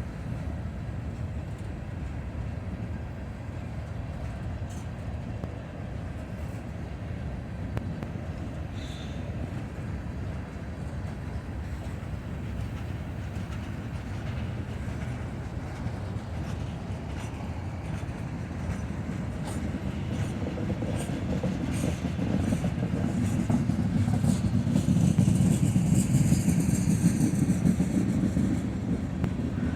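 Norfolk Southern mixed freight train rolling past, a steady low rumble of wheels on rail with scattered clicks from the track. It grows louder in the last third, with a high metallic squeal from the wheels near the end.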